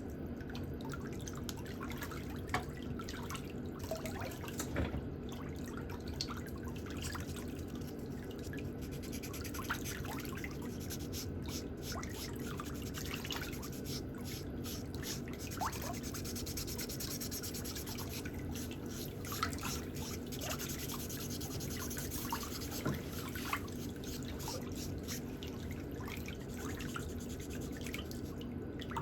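Light, irregular scraping and clicking of pedicure hand tools working on a toenail, over a steady low hum.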